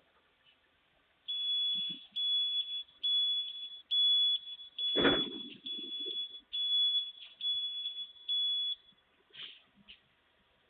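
Garbage truck's reversing alarm beeping, a steady high tone repeated about ten times at a little over one beep a second, then stopping. A low thump with a short rumble comes about halfway through.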